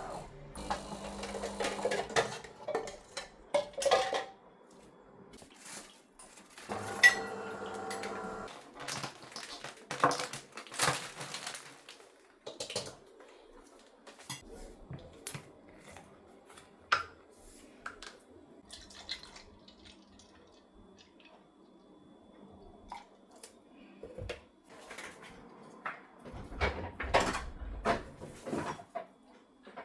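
Dishes and cutlery clinking and knocking as they are handled, in scattered bursts with a quieter stretch in the middle.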